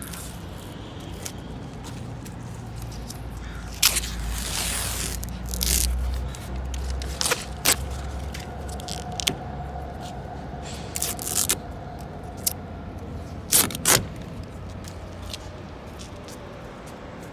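Plasti Dip rubber coating being peeled off a car's paint: irregular sharp snaps and a longer tearing rasp about four seconds in.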